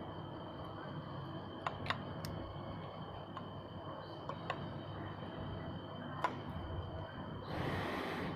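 Scattered sharp metallic clicks, as of hand tools and small parts being handled during motorcycle repair work, over a low background rumble. A short hiss comes near the end.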